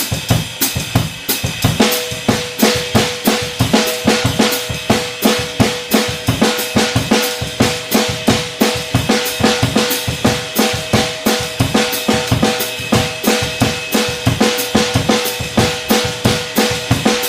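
Drum kit playing a samba groove at tempo 90: bass drum, snare and rimshot strokes in a dense, steady rhythm. Held pitched notes of an accompaniment come in about two seconds in.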